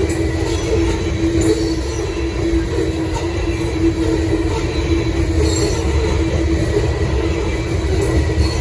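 CSX freight train rolling past, a steady rumble and drone of railcars on the track with brief high-pitched wheel squeals now and then.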